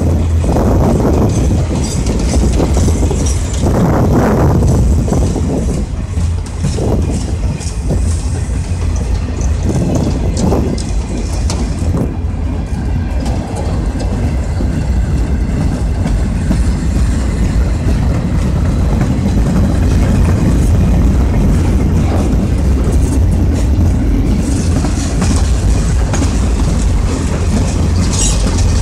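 Boxcars of a Union Pacific freight train rolling past at close range: a loud, steady rumble of steel wheels on the rails.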